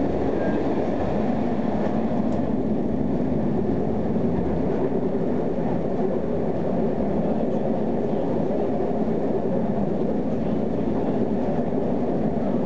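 Antwerp premetro tram running steadily through its tunnel, heard from inside the car: a continuous rumble of wheels on rails and running gear with no breaks or sudden sounds.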